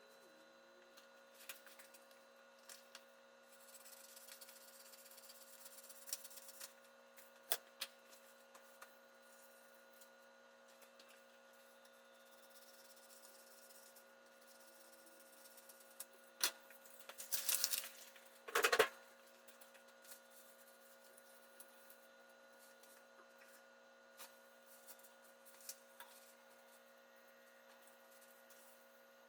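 Faint hand work in a small room: scattered light clicks and taps, a stretch of soft rubbing, and a louder brief scraping burst about two-thirds of the way through, over a steady electrical hum.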